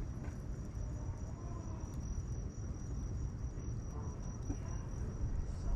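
Wood bonfire burning with a steady low rumble and a few faint crackles, while an insect trills steadily at a high pitch.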